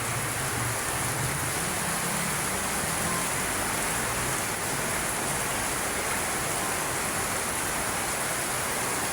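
Steady heavy rain pouring down, an even hiss with no breaks. A low hum underneath fades out in the first few seconds.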